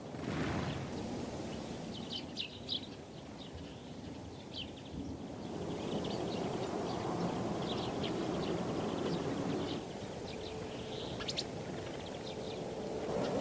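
Small birds chirping in short, high calls scattered throughout, over a steady low outdoor background noise that grows louder from about five to ten seconds in.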